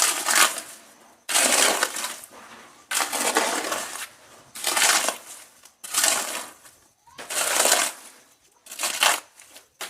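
Loose stones being tipped or thrown down in a series of rattling crashes, about seven in all, roughly one every second and a half, each dying away before the next.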